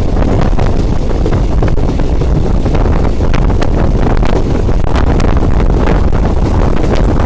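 Passenger train running along the track, heard with heavy wind buffeting on the microphone, and a few sharp clicks about halfway through.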